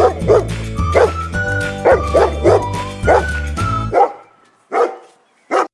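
A dog barking repeatedly, short sharp barks over steady background music. About four seconds in the music cuts out and two last barks sound on their own.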